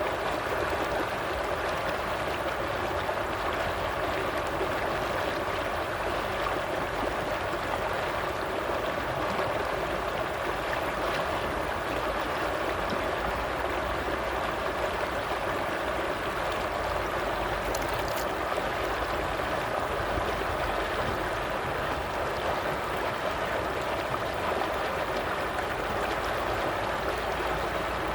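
Running water of a stream, a steady babbling flow with no change in level.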